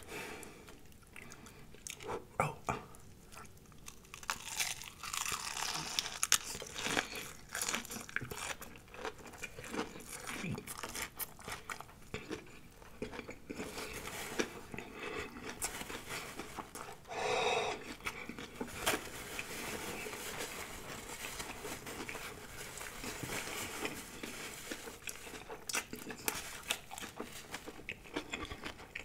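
Close-miked crunching and chewing of fried breaded shrimp: repeated crisp bites and mouth sounds, irregular throughout, with a short pitched sound partway through.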